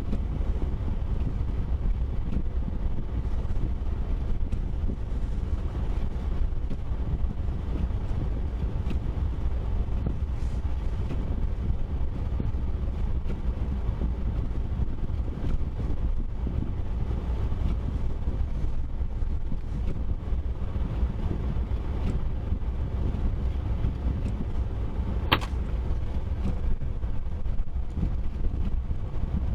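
Steady low rumble of a car driving, with one short click about 25 seconds in.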